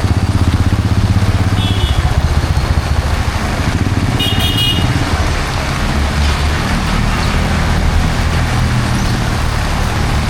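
Passing road traffic in heavy rain: vehicle engines running close by over the hiss of rain and wet road, with a high-pitched horn sounding twice, a short beep about a second and a half in and a longer toot about four seconds in.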